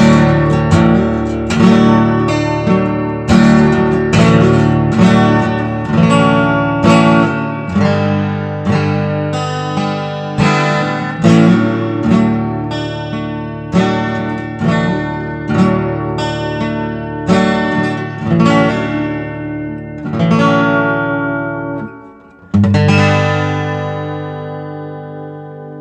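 Acoustic guitar strumming chords in a steady rhythm, pausing briefly near the end before a last chord that rings out and fades.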